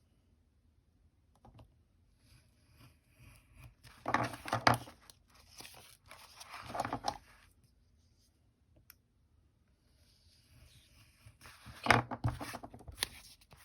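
Paper being handled, with two short bursts of rustling and crinkling about four and six seconds in, and more near the end.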